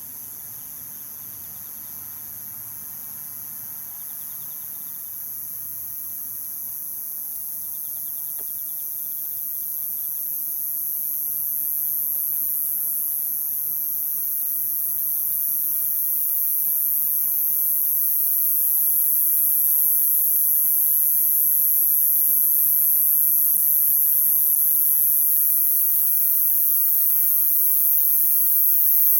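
Dense, steady chorus of night-singing insects, high-pitched and unbroken, growing gradually louder.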